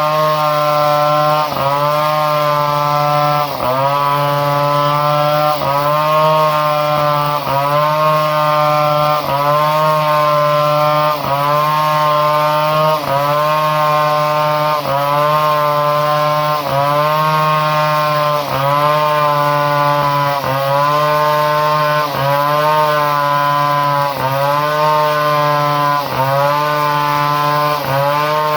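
Two-stroke chainsaw with a modified ignition running at high revs. Its pitch sags briefly and recovers about every two seconds, as if it is being loaded and unloaded.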